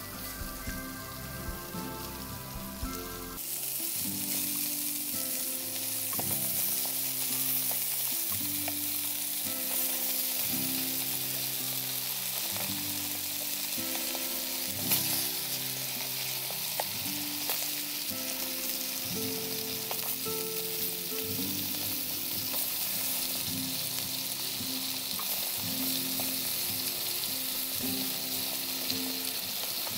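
Baby octopus and raw meat sizzling in oil on a foil-lined hot plate: a steady frying hiss that starts abruptly about three seconds in.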